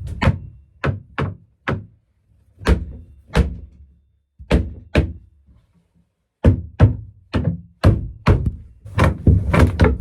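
Heavy blows striking the plywood bunk of a sailboat's V-berth as it is knocked apart: about twenty thuds in irregular pairs and groups with short pauses, coming faster in the last few seconds.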